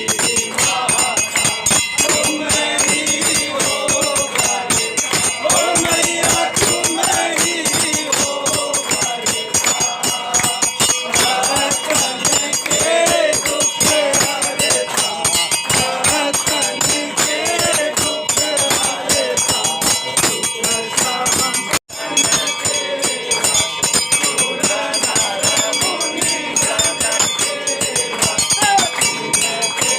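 Temple aarti sung by a group, with fast rattling metal percussion and steady ringing bells over the singing. The sound cuts out for an instant about two-thirds of the way through.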